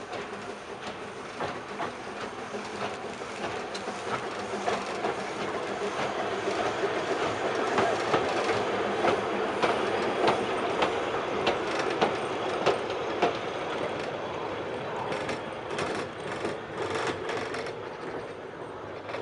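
Narrow-gauge steam train of goods wagons rolling across a girder bridge, the wheels clicking steadily over the rail joints. It grows louder toward the middle and eases off later as the wagons pass.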